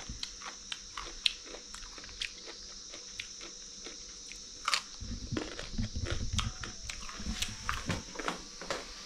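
A man biting and chewing a slice of raw cucumber: crisp crunching clicks, one after another. A low rumble joins in from about halfway.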